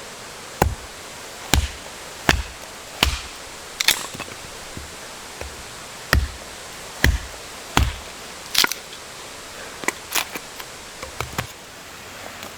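Wood being chopped: about a dozen sharp blows with a dull thud, roughly one every three-quarters of a second, lighter and more uneven near the end, over a steady hiss of rain.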